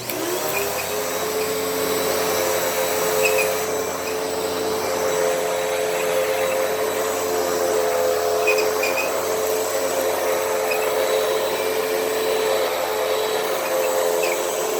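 Hoover WindTunnel T-Series upright vacuum cleaner switched on: the motor spins up with a rising whine in the first half second, then runs with a steady whine and rush of air.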